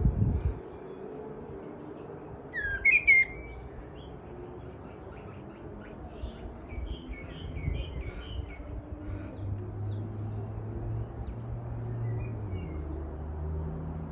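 Birds calling from a tree: one loud, sharp call of a few quick notes about two and a half seconds in, then a scattering of softer short chirps a few seconds later. A thump at the start and a low steady hum in the second half sit underneath.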